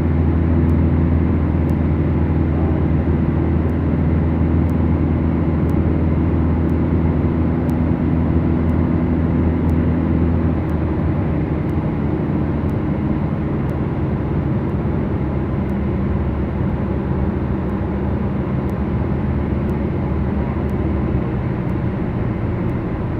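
Twin-engine Beechcraft Duchess's Lycoming four-cylinder engines heard from inside the cabin, running steadily. About ten seconds in, the engine tones weaken and the overall level drops a little as power comes back.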